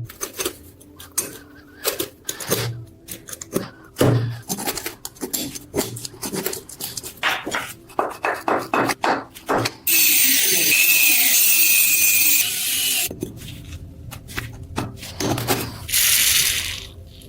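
Tools working on an old metal oil lamp: a quick run of taps, clicks and knocks, then about ten seconds in a few seconds of steady hissing, more knocks, and a second short hiss near the end.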